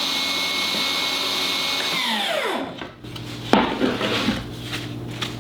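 Cordless Milwaukee M18 table saw running at speed with a steady whine, then switched off about two seconds in, its pitch falling as the blade spins down. A few knocks from handling the wood follow.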